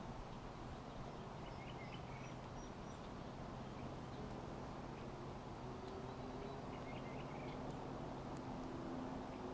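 Faint songbird chirps, a few short calls in two brief clusters, over a steady outdoor background with a low hum that gains a second, higher hum tone about two thirds of the way through.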